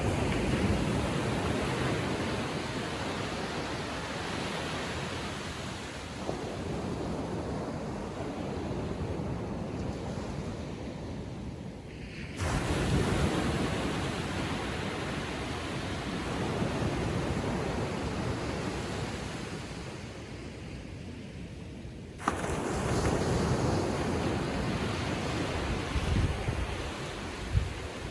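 Small ocean waves breaking on a sandy beach and washing back, with some wind on the microphone. Two waves break with a sudden rise in level, about 12 and 22 seconds in, each washing off gradually.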